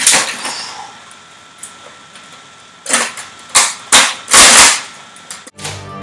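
Five sharp shots: one at the start, then four between about three and five seconds in, the last one longer. A stretch of music begins near the end.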